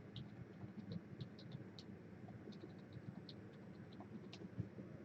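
Faint, scattered light clicks and ticks, one a little louder near the end, over a low steady room hum.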